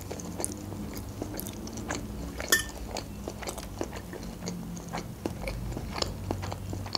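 Close-miked chewing of a bite of fried sausage with the mouth closed: many small, irregular wet clicks and smacks, with one sharper click about two and a half seconds in.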